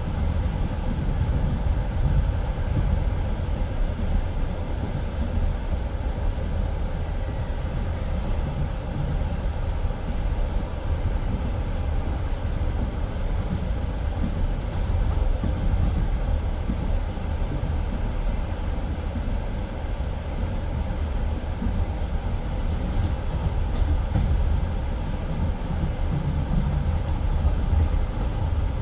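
Passenger train carriage running steadily on the rails between stations, heard from inside the carriage: a continuous low rumble of the wheels and car body.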